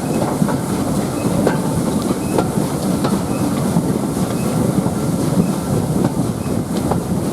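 Train running along the rails at steady speed: a constant low rumble, with occasional sharp clicks as the wheels cross rail joints.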